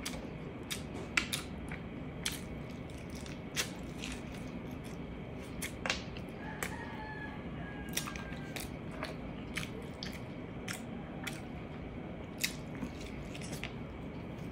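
Close-miked eating of braised pork ribs and rice by hand: wet chewing and mouth clicks and lip smacks at an irregular pace, over a steady low room hum.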